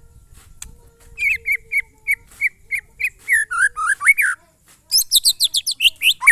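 White-rumped shama (murai batu) singing in the 'glondong' style. After a quiet first second it gives a run of evenly spaced whistled notes, about three a second, then quicker sweeping notes. After a short pause a fast trill of high notes begins near the end.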